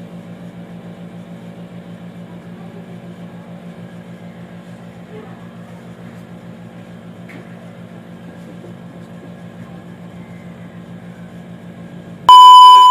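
A steady low mechanical hum with a fast, even pulsing, like a small motor or fan running. Near the end a loud electronic beep at a single pitch cuts in.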